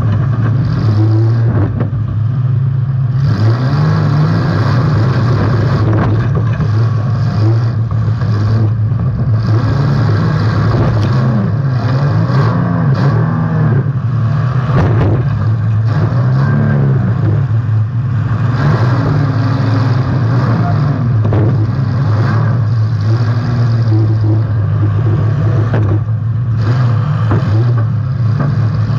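Demolition derby car engine running hard and revving, heard from on board: a loud steady drone whose pitch keeps rising and falling, with occasional brief clatter.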